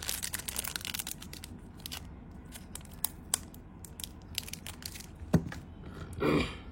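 Close-up handling of a Zippo lighter: a crinkling rustle at first, then scattered light clicks and taps, with one sharper click about five seconds in and a brief muffled sound near the end.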